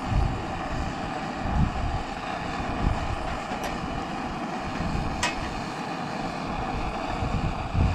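Steady roar of a high-output Primus gas burner running under a pot, with wind buffeting the microphone. Two faint ticks about halfway through, and the roar stops abruptly at the end.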